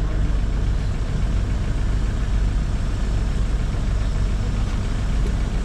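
Engine idling steadily, its sound sitting mostly low.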